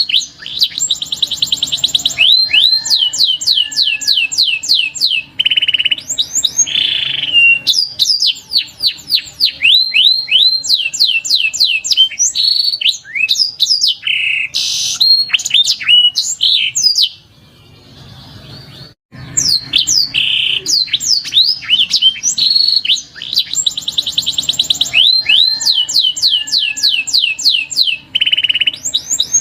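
Domestic canary singing loudly: fast trills of repeated downward-sweeping whistled notes and buzzy rolls. The song breaks off for about two seconds around two-thirds of the way through, then resumes.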